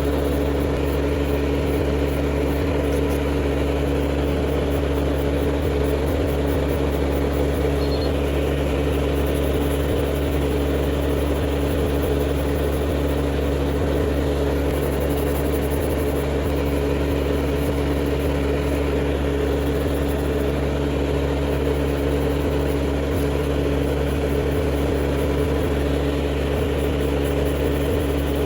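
Small electric motor of manicure equipment humming steadily at one constant speed.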